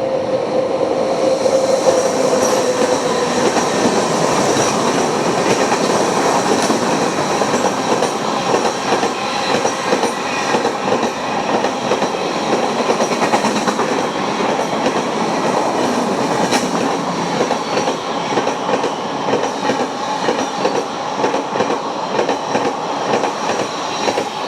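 Superfast express train's coaches passing at full speed: a continuous, rapid clatter of wheels over the rail joints, with the tail of the train's horn dying away in the first few seconds.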